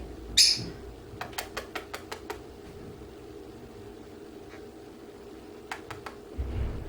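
A plum-headed parakeet clicking and tapping at his mirror: a short scratchy rustle, then a quick run of about seven light clicks, two more a few seconds later, and a soft low thump near the end. A faint steady hum sits underneath.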